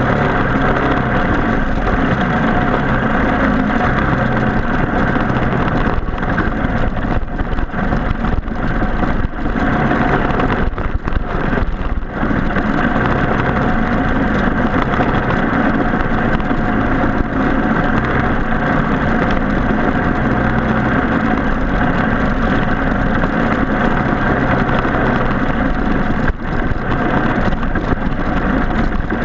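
Racing kart's Briggs & Stratton Animal four-stroke engine running hard and steady, with a few brief dips in loudness.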